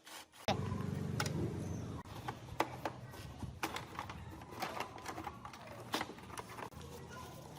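Irregular clicks and taps of hand tools and metal parts being handled during motorcycle disassembly, over a steady low hum.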